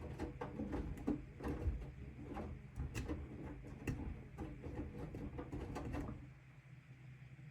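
AEG LR8FL160EX front-loading washing machine drum turning, with wet bath mats tumbling and thudding irregularly over the motor's low hum during the wash rhythm; the tumbling stops about six seconds in, leaving a faint hum.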